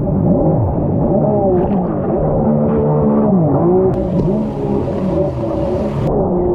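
Jet ski engine revving, its pitch repeatedly dropping and climbing again as the throttle is let off and opened.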